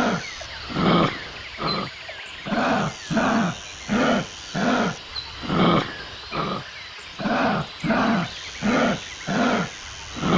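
Kangaroo grunting: short, raspy grunts repeated evenly, about one and a half a second.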